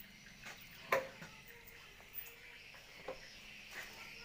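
Knocks and clunks of the swiftlet house door being shut and locked: one sharp knock about a second in, then a few lighter knocks.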